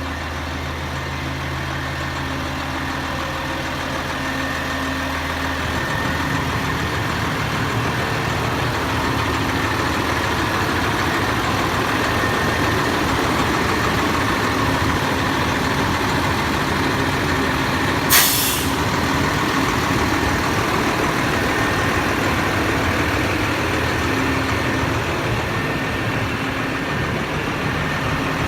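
Cummins six-cylinder turbo diesel of a Sterling truck running steadily, its sound changing about six seconds in. A short burst of air hiss, like an air brake release, comes about two-thirds of the way through.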